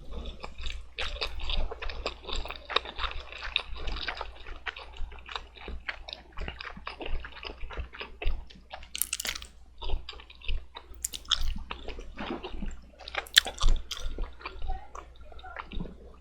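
Wet chewing of black bean noodles close to the microphone: a steady run of small lip smacks and moist clicks, with a few louder smacks in the second half.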